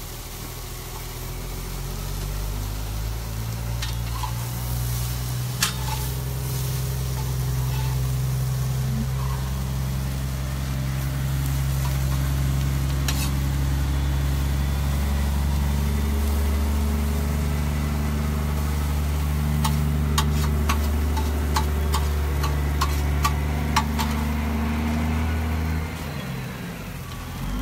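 A large vehicle's engine running close by, a steady low hum that builds over the first several seconds and cuts off near the end, over food sizzling in a pan. A run of light sharp clicks comes a few seconds before the engine stops.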